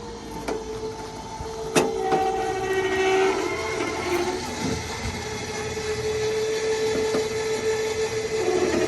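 Powered motorcycle lift's electric motor running with a steady whine as it raises the loaded ramp, with a sharp clunk about two seconds in. The whine grows louder and fuller near the end.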